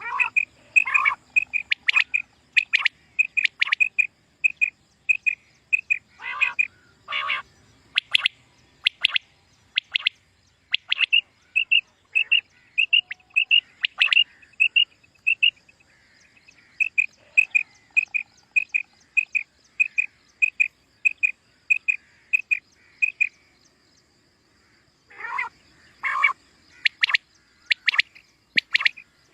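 Common quail calling: a long run of short, clear high notes at about two a second, with a short pause near the end. Louder calls that cover a wider range of pitch cut in at the start, around six seconds in, and again near the end.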